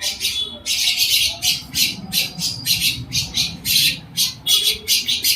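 A bird calling over and over with short, harsh squawks, about two to three a second.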